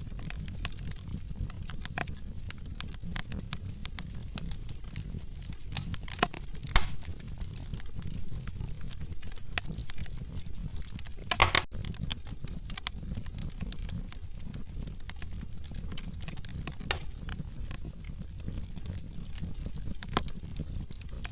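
Wood logs burning in a fireplace: a steady low rumble of flames with irregular sharp crackles, and louder pops about a third of the way in and again just past the middle.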